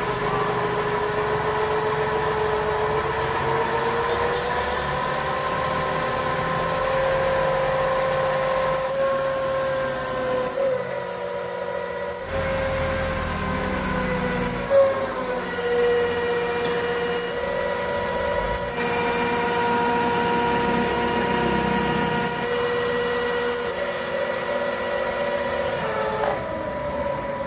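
Motor of a homemade radio-controlled model dump truck running with a steady whine whose pitch rises slightly, dips briefly near the middle and shifts a few times.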